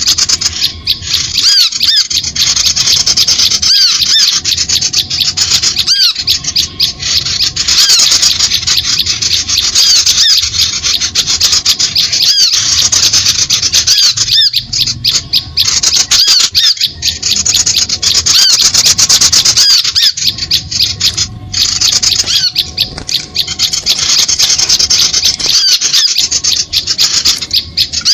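A dense, continuous chorus of small-bird calls: rapid high chirps and twittering notes overlapping without pause, with brief dips about every two seconds. It is a bird-luring call recording (suara pikat) for drawing small birds.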